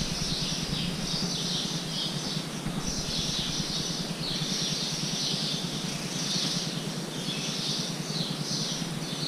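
Small birds chirping continuously: many high, short chirps in quick clusters, some falling in pitch.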